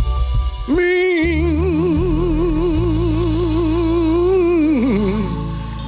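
Gospel singing: a voice enters under a second in and holds one long note with a wide vibrato for about four seconds, then slides down near the end, over sustained keyboard chords and a low bass line.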